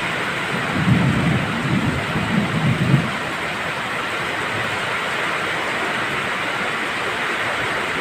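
Steady heavy rain with a low rumble of thunder from about a second in, fading out after about two seconds and leaving the rain alone.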